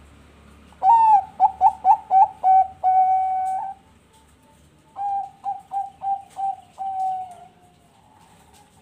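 Zebra dove (perkutut bangkok) singing its cooing song, twice. Each phrase is a quick run of short clipped coos that ends in one long drawn-out note, and the second phrase is quieter.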